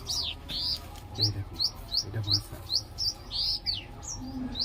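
Small birds chirping rapidly: a quick series of short, high, rising chirps, about three or four a second, broken by a few longer arched notes.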